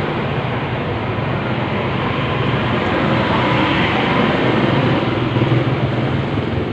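Steady vehicle noise: a low engine hum under a rushing road sound, growing a little louder midway.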